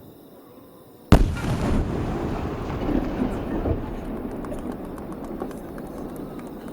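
A 24-inch (20-go) firework shell goes off with a single very loud boom about a second in, followed by a long rolling rumble that slowly fades.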